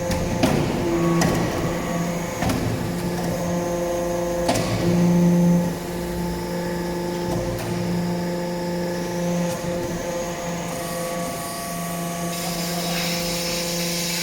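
Hydraulic metal-chip briquetting press running: a steady hum from its hydraulic pump motor, with a few sharp metallic knocks in the first few seconds.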